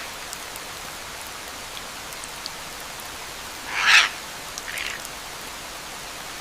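Steady rain hiss with scattered faint drop ticks. A louder rushing swell of noise comes about four seconds in, followed by a smaller one.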